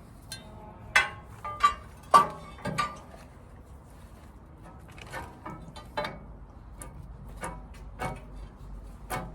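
Metal parts of a large generator being worked loose: a few sharp metallic clanks with a brief ring about one to three seconds in, then lighter knocks and taps.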